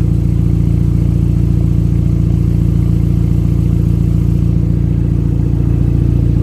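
An Audi's engine idling steadily with a loud exhaust leak under the car, a rapid even pulsing rumble. The owner thinks an exhaust clamp has come off.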